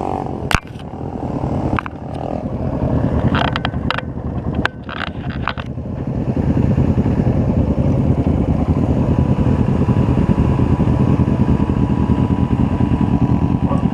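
Motorcycle engine running on the move, with road and wind noise. A few sharp clicks come in the first six seconds, and the engine gets louder and steadier about six seconds in.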